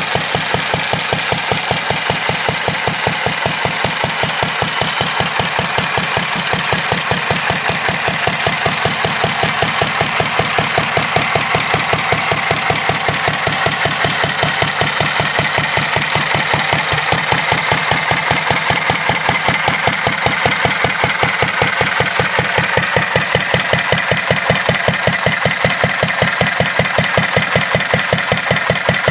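1945 Petter A 1.5 hp single-cylinder stationary engine running steadily at idle, with an even, regular exhaust beat.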